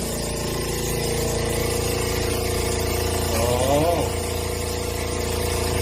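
Electric motor of drain-cleaning equipment running steadily with an even hum.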